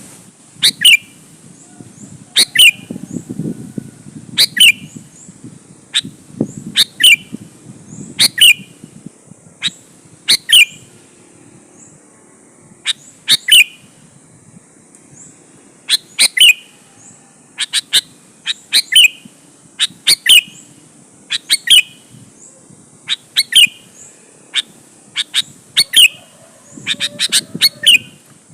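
Sooty-headed bulbul (kutilang) calling: short, sharp notes repeated every second or two, coming in quicker runs in the second half.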